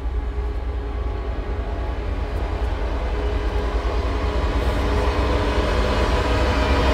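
Low, rumbling dark-ambient drone of a horror film score, with held tones layered above it, swelling steadily louder.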